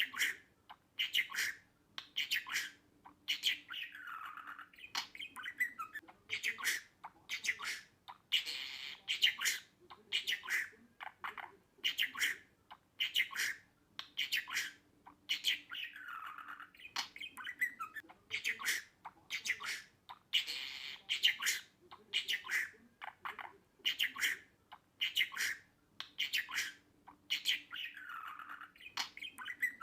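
Budgerigar chirps and squawks: a dense run of short calls about twice a second, the same sequence of calls recurring about every twelve seconds.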